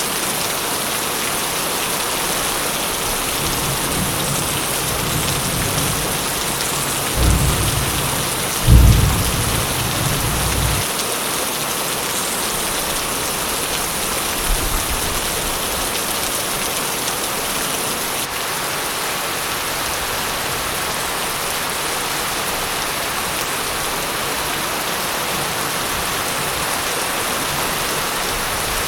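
Steady heavy rain with a rumble of thunder that builds a few seconds in, peaks in two low cracks around the middle, and dies away, with a faint further rumble shortly after.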